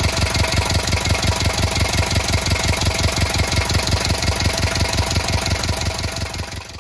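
Volvo Penta MD11D two-cylinder marine diesel running steadily with an even, rapid knock just after starting: it has started and keeps running on its freshly changed filters and bled fuel system.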